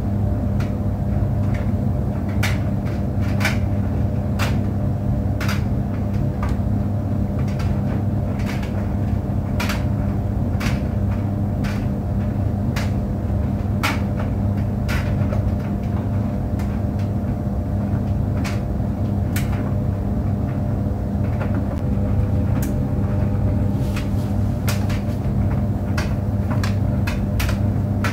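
Clothes tumble dryer running: a steady hum and rumble with irregular light knocks and clicks every second or so.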